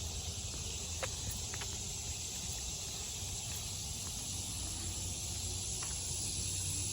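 Steady insect chorus, a continuous high buzzing hiss, over a low steady hum, with a few faint clicks.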